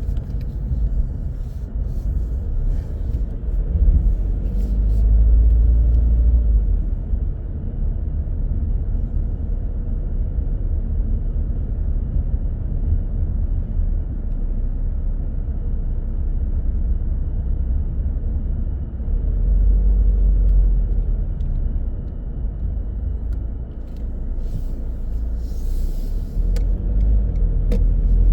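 A car being driven: the low, steady rumble of its engine and tyres, swelling louder twice, with a few faint clicks near the start and near the end.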